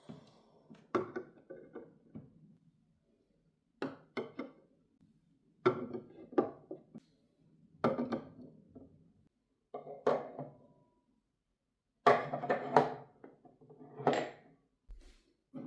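Household objects being handled and set down: clusters of knocks and clatter every couple of seconds, with the loudest, busiest run about twelve to fourteen seconds in.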